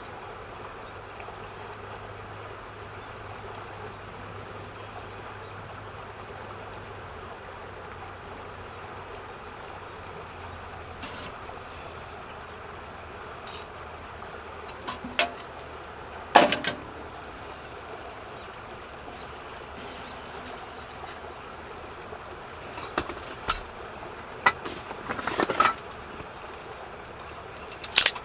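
Scattered clinks and knocks of camp cookware being handled, the loudest about sixteen seconds in and a quick cluster near the end, over a steady low background hiss and hum.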